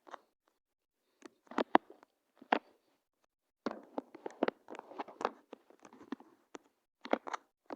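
Irregular knocks and clatters: a quick string of short, sharp impacts, thickest in the middle and again near the end.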